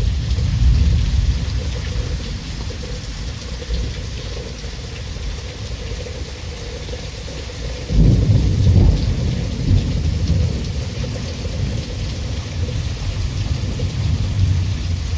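Thunderstorm: steady rain hissing, with low thunder rumbling underneath. A louder roll of thunder comes in suddenly about eight seconds in and rumbles for a couple of seconds before easing back.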